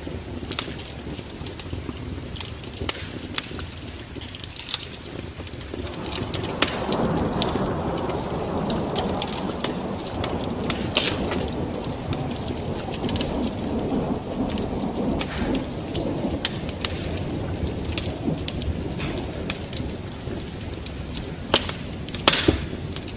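Wood fire crackling with sharp pops throughout, joined about six seconds in by a swelling rumble of thunder and rain that fades near the end.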